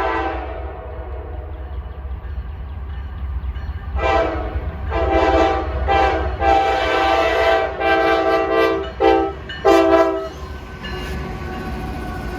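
Diesel freight locomotive's multi-chime air horn: a blast cutting off at the start, then after a few seconds a run of horn blasts, the last two short, over the steady low rumble of the moving train.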